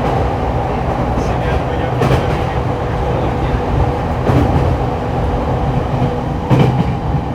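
Interior running noise of an E231-1000 series commuter electric train: a steady rumble of wheels on rail with a faint steady hum, and a clunk from the rail joints about every two seconds.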